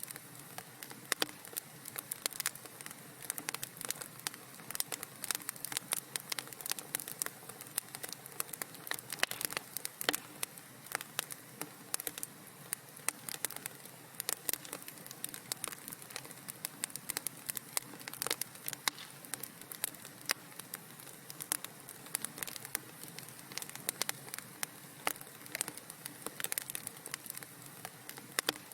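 Wood fire crackling in a fireplace: dense, irregular pops and snaps over a low steady hiss.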